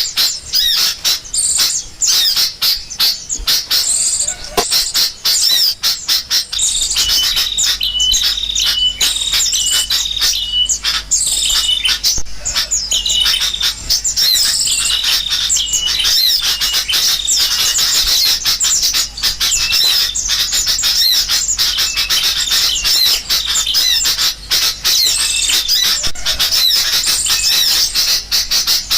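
Bird-lure recording of a noisy flock of sooty-headed bulbuls calling together, mixed with the chirps of small birds, in a dense, unbroken chatter. A short call note repeats again and again for several seconds in the first half.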